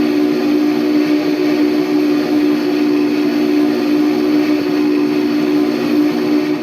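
Steam locomotive's chime whistle sounding one long, steady blast that cuts off sharply at the end, over the running noise of the train.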